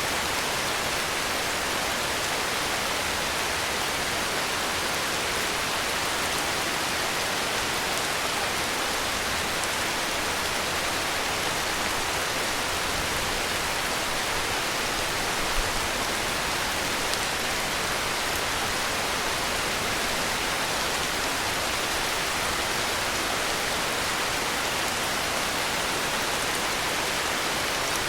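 Heavy rain falling, a steady even hiss, with one brief louder tap about halfway through.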